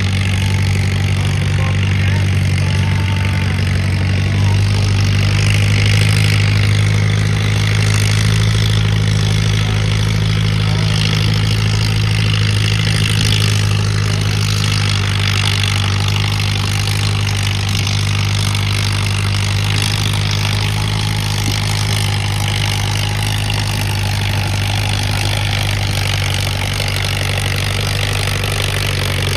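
Tractor engine running steadily at a constant pitch throughout, with no revving.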